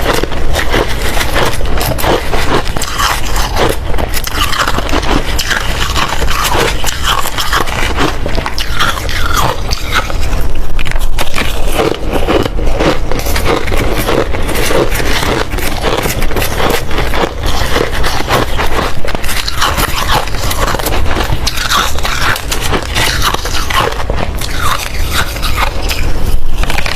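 Close-miked ice eating: a person biting and chewing hard ice, a steady run of loud crunches and cracks with no pause.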